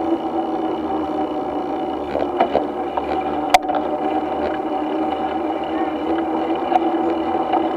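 A steady mechanical droning hum, with a few light rattles and one sharp click about three and a half seconds in.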